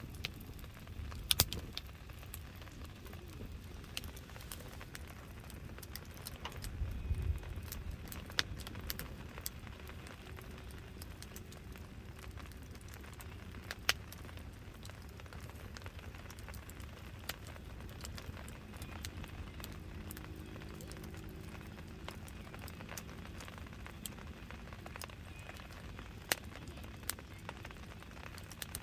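Wood campfire crackling: irregular sharp pops and snaps over a steady low rumble, with a few louder pops about a second and a half in, around the middle, and near the end.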